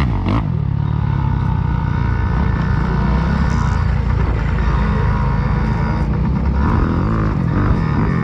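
Small dirt bike engine running at a steady pace, its note wavering briefly a couple of times.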